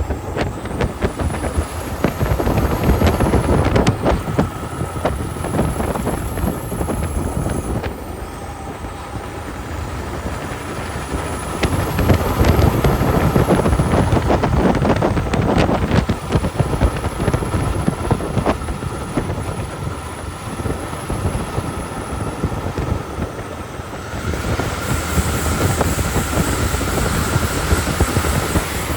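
Logging truck driving on a snowy road, heard from inside the cab: diesel engine and road noise with a steady faint whine and constant rattling. A louder hiss comes in near the end.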